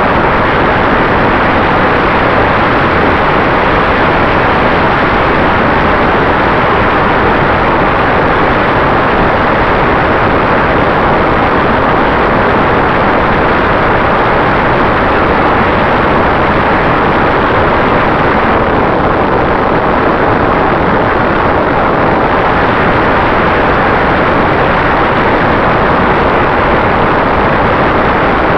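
FPV quadcopter in flight: motors and propellers running with a steady rush of wind noise and a faint constant whine.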